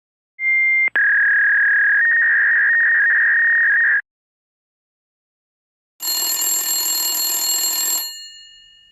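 Telephone sound effects: a short high beep, a click, and a steady high electronic tone lasting about three seconds. After a pause comes about two seconds of telephone bell ringing, which then rings out.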